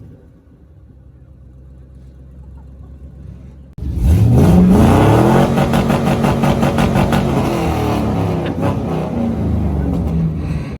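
A vehicle engine runs low and fairly quiet, then about four seconds in it revs up sharply and is held at high revs, wavering slightly. It cuts off suddenly at the end.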